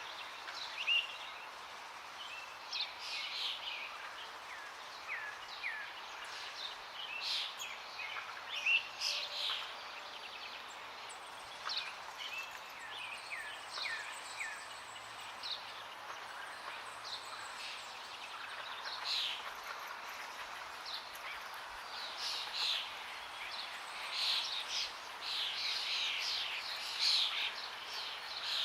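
Many songbirds chirping and singing over a steady rush of flowing water, the birdsong busiest near the end.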